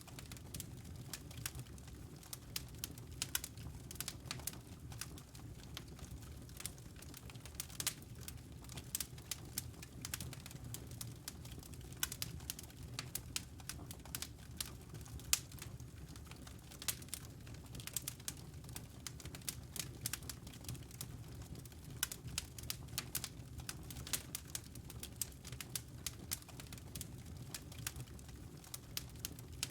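Wood fire burning in a fireplace, with frequent irregular crackles and pops from the logs over a steady low rumble of the flames.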